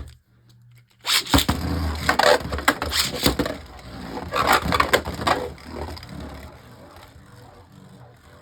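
Two Beyblade Burst tops, Harmony Pegasus and Command Valtryek, launched into a plastic stadium about a second in, clattering and clashing with rapid hard hits for several seconds. The hits then thin out into quieter spinning and scraping as the tops circle.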